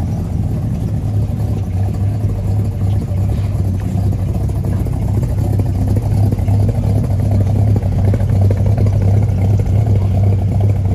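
A car engine running steadily at idle, a continuous low rumble.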